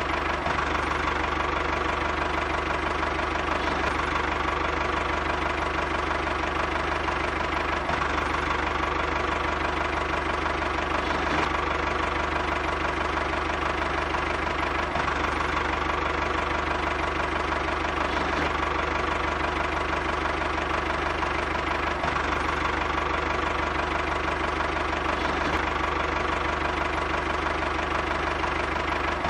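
Small motor of a DIY model machine running steadily at an unchanging speed.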